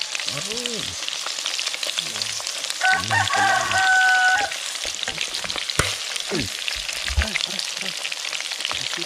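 Batter-coated frogs deep-frying in a pan of hot oil, sizzling and crackling steadily while a wooden spatula stirs them. About three seconds in, a louder pitched sound lasts about a second and a half over the sizzle.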